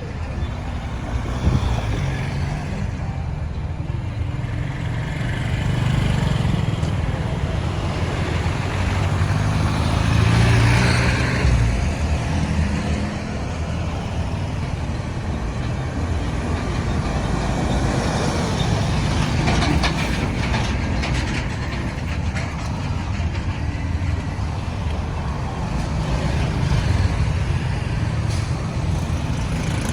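Busy road traffic noise: the engines of trucks, cars and motorbikes running and passing, a continuous low rumble that swells and fades.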